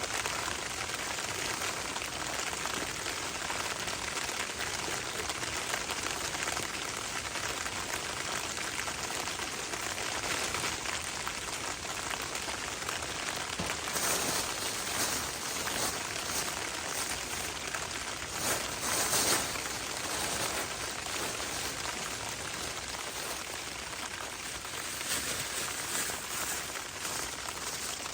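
Steady rain falling, a continuous hiss with no rhythm, swelling briefly louder about fourteen seconds in and again around nineteen seconds.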